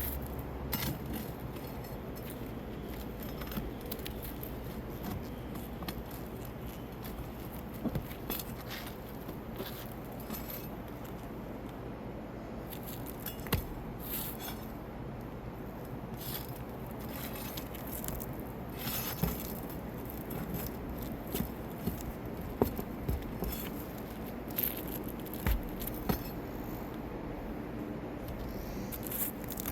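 A metal tool scraping and clinking against roofing nails and shingles as the nails are worked loose, with sharp clicks scattered through.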